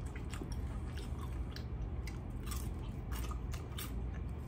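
Close-miked chewing of air-fried rotisserie chicken, with irregular small clicks and smacks of the mouth, over a low steady hum.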